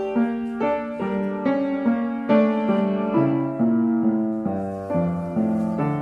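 Piano playing accompaniment music, a new note or chord struck about every half second.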